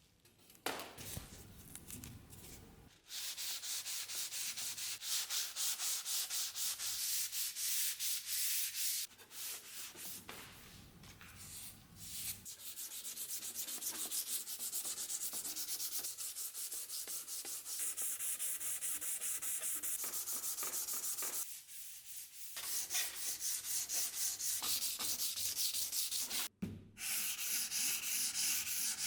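Sandpaper rubbed in quick back-and-forth strokes over a rusty steel saber blade, a dry scratching hiss in steady runs broken by a few short pauses.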